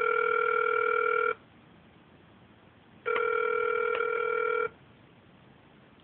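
Telephone ringback tone heard over the phone line: two rings, each about a second and a half long with a pause between, while the call rings unanswered at the other end.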